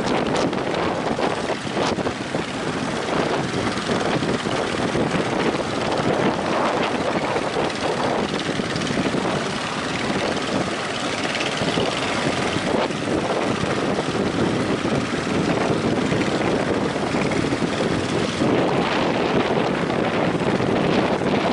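Strong gusting wind buffeting the microphone over rough surf at a river mouth: a loud, steady rush of noise.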